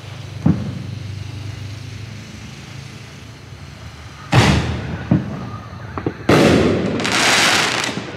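Fox Koto Ring Shells, consumer reloadable artillery shells fired from a mortar tube: a dull launch thump near the start, then a loud shell burst about four seconds in with a few smaller pops, and a second loud burst about six seconds in with a dense tail lasting almost two seconds.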